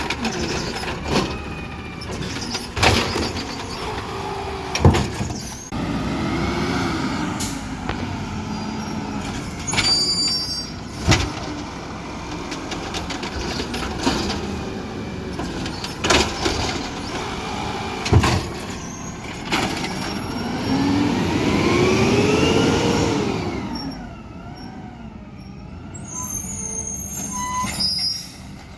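Garbage truck at work: its diesel engine runs under repeated clanks and bangs. About two-thirds of the way in, the engine revs up and falls back, then the sound drops to a quieter stretch with a faint wavering tone.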